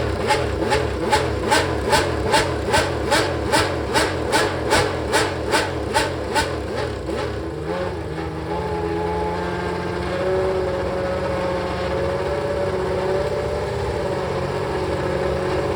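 Ferrari 639's 3.5-litre V12 Formula One engine blipped rapidly, about two and a half sharp revs a second for roughly seven seconds, then settling to a steady idle.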